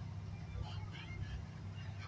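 Steady low rumble of a High Speed Train running, heard inside the coach, with faint broken higher sounds coming and going over it.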